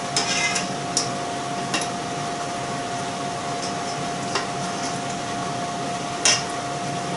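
Forks clinking against a pan and a pasta dish while spaghetti is lifted and served: a few separate sharp clinks, a quick cluster at the start and the loudest near the end, over a steady low hum.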